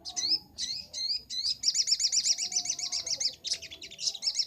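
Sogok ontong (little spiderhunter) singing: a few sharp, high upslurred chirps, then a fast rattling run of repeated notes for about two seconds, then more quick chirps near the end.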